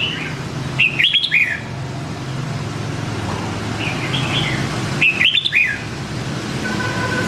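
Red-whiskered bulbul singing: two short, loud warbled phrases of quick up-and-down notes, the second about four seconds after the first, over a steady low rumble.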